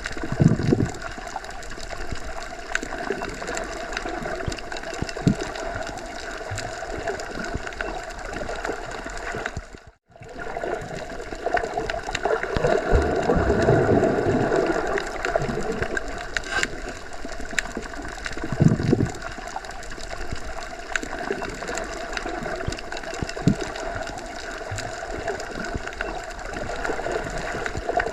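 Underwater ambience: a steady, muffled rush of water with gurgles and scattered low thuds. It cuts out briefly about ten seconds in and fades back up.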